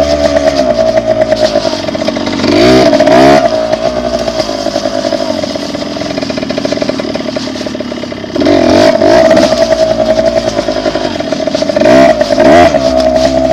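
Dirt bike engine running under way, revving up in short bursts about two and a half seconds in, again past the middle, and near the end, with steadier running between.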